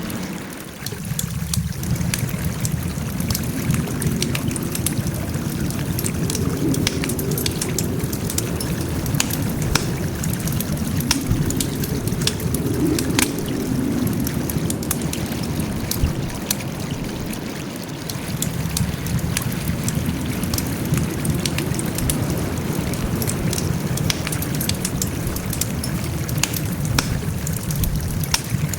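Wood fire crackling: frequent sharp snaps and pops over a steady low rumble of burning, with a brief dip about a second in.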